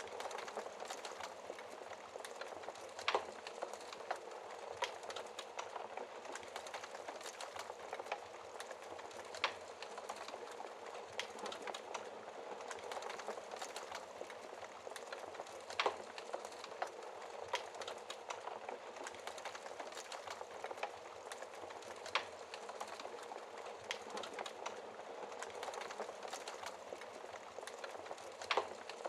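Wood fire burning in a fireplace: a steady hiss of flames with frequent crackles and several sharper pops, the loudest about 3, 9, 16, 22 and 28 seconds in.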